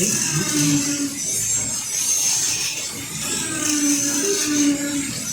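HO-scale AFX slot-car semi trucks running laps on a routed plastic track: several small electric motors giving a steady high buzzing whine, mixed with the rasp of the cars on the track surface.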